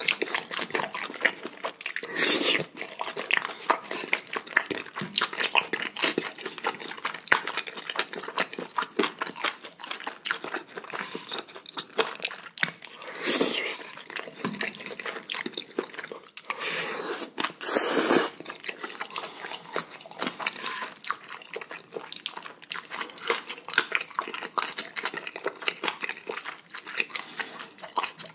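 Close-miked chewing of spicy chicken neck meat and knee cartilage, wet mouth sounds with many quick clicks. Three louder sounds of about half a second each break in, near the start, about halfway through and a few seconds later.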